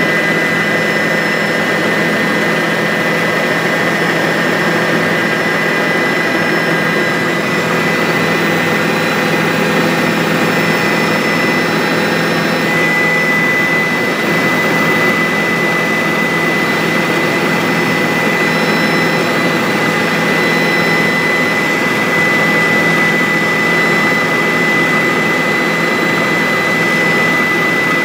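Bell 407 helicopter in flight: steady turbine and rotor noise with a high, steady whine over it.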